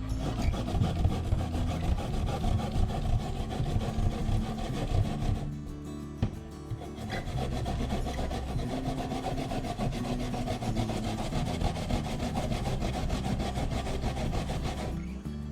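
Daikon radish being grated on a grater: continuous rasping, scraping strokes, with a pause of about a second and a half partway through before the grating resumes.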